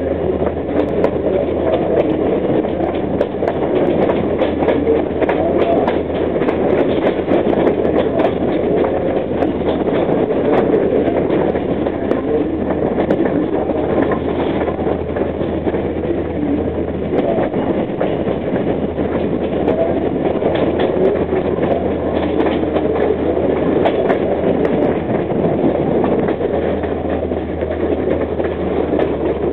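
Passenger coach of an excursion train rolling steadily along the track: continuous wheel-and-rail noise with a low hum underneath and faint clicking of the wheels over the track.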